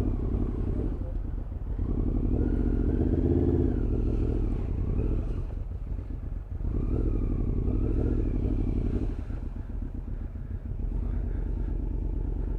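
Motorcycle engine running while riding, pulling harder twice, about two seconds in and again about seven seconds in, and easing off between.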